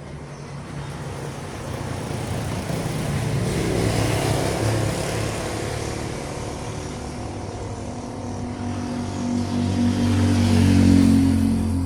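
Heavy truck traffic passing on the road. Tyre and engine noise swells to a peak about four seconds in, then a deep, steady engine drone grows louder toward the end.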